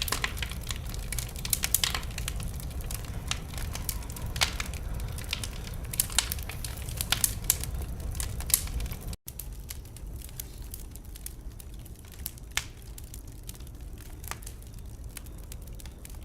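Wood fire in a fireplace crackling and popping over a steady low rumble of flames. About 9 s in, the sound cuts out for a split second, and after that the pops come fewer and quieter.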